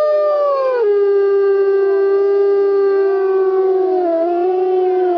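A toddler's voice imitating a wolf howl: one long, loud held note that starts higher, drops about a second in, then holds steady with small wavers.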